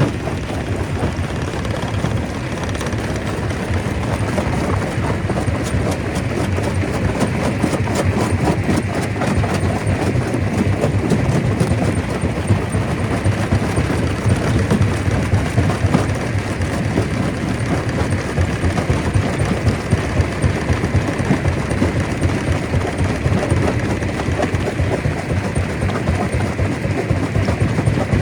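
Stone crusher running under load: a continuous dense clatter of rock knocking and cracking over a low mechanical rumble.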